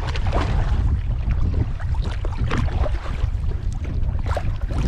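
Strong wind buffeting the microphone as a steady low rumble, with water splashing and lapping around a kayak out on rough, choppy water.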